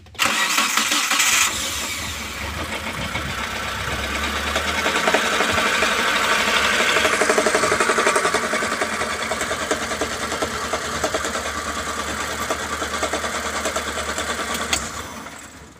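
Mitsubishi T120SS fuel-injected engine cranked and started, then running with a rapid tok-tok knocking at the front of the engine before it is switched off near the end. The knock seems to come from inside the timing belt cover, which the uploader puts down to a slack timing belt striking the cover.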